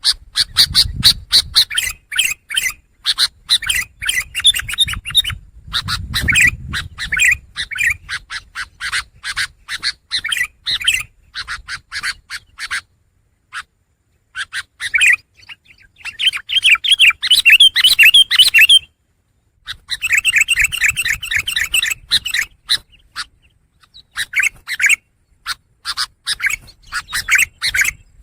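Long-tailed shrike (pentet) singing: fast runs of short, repeated notes, broken by a pause about halfway through and another briefly later.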